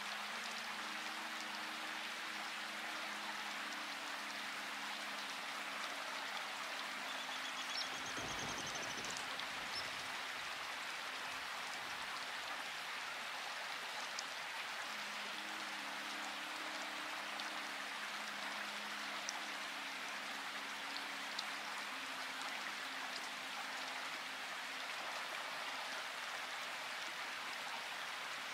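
Steady rain falling, with scattered drop ticks and a soft low thump about eight seconds in. A faint low hum comes and goes underneath.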